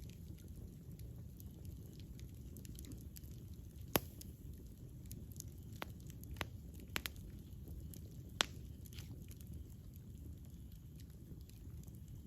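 Campfire crackling: a loud sharp pop about four seconds in and a cluster of pops between about six and eight and a half seconds, with fainter ticks between, over a steady low rush.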